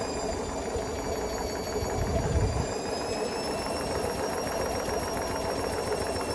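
Hotpoint Smart Tech WMFUG742 washing machine running with bricks in its drum: a motor whine that dips and rises slowly over a steady mechanical rumble, with a low thump about two seconds in.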